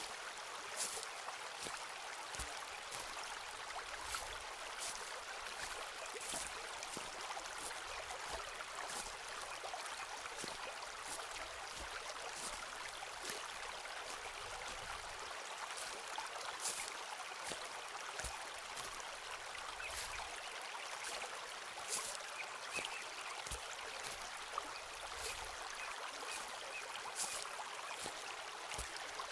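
Footsteps on a forest path at a steady walking pace, about one crunching step a second, over the steady rush of a flowing stream.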